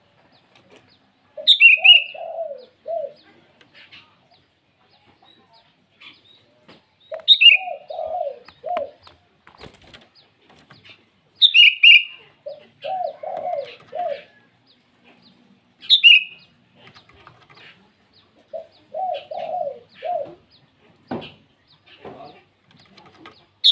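Sooty-headed bulbul calling a rival, repeating a phrase about every four to five seconds: a sharp high chirp that drops in pitch, then a lower run of four or five quick notes. A few faint clicks fall between the phrases.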